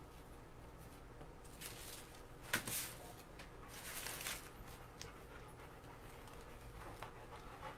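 A dog panting faintly, a few short breaths.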